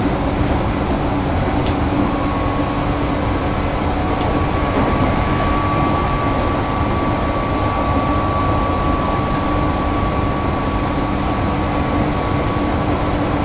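Tobu Isesaki Line electric train running along at speed: a steady rumble of wheels and running gear, with a thin steady whine that sets in about two seconds in. Wind blowing across the microphone adds to the rumble.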